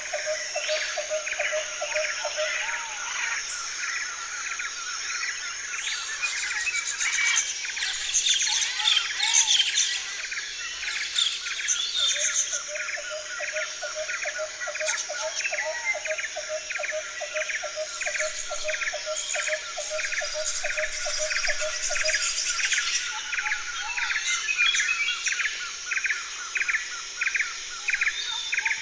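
Tropical forest birds calling: one bird repeats a quick call about twice a second throughout, a lower note repeats in a fast series through the middle, and a busy flurry of higher calls comes about eight seconds in. A steady high insect drone runs underneath.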